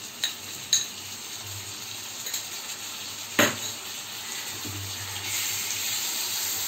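Papaya and onions frying in oil in a nonstick wok, a steady sizzle that grows louder near the end as ginger-garlic paste is stirred in with a spatula. A few sharp knocks of a utensil on the pan, the loudest about three and a half seconds in.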